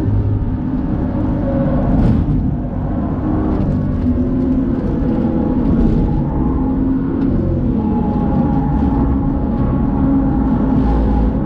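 BMW engine heard from inside the cabin, pulling hard at full throttle near 6,000 rpm, then dropping in pitch as the driver lifts off and brakes, and picking up again on part throttle through the corner.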